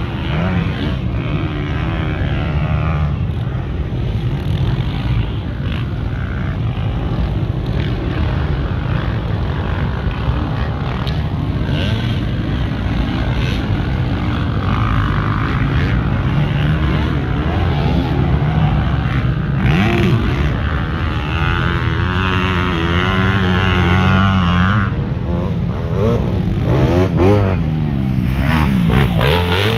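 Motocross motorcycle engines running continuously, with the engine pitch rising and falling as they rev, most plainly near the end.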